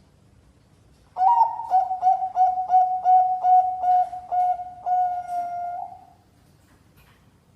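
Zebra dove (perkutut, Bangkok type) cooing. A quick string of short coos, about four a second, ends in one longer drawn-out coo.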